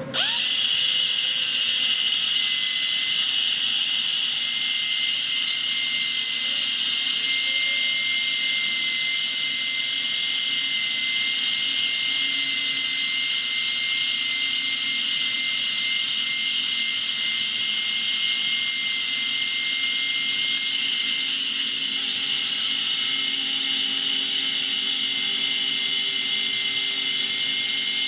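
A power tool's motor running continuously at a steady speed, with a high whine; it starts abruptly.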